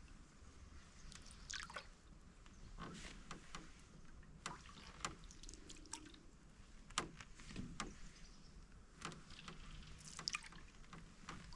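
Quiet canoe paddling: water dripping and trickling off the paddle with small, irregular splashes and light ticks, the sharpest about seven seconds in.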